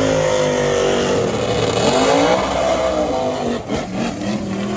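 Drag-racing car engines running hard on the strip. The engine pitch dips and then climbs again about two seconds in, with a few sharp cracks shortly before the end.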